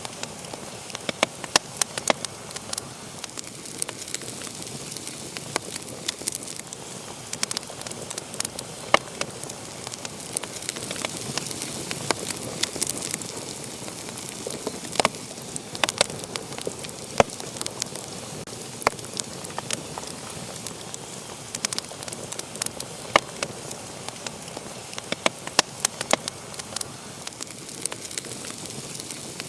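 Wood fire burning in a fireplace, crackling and popping irregularly over a steady soft hiss.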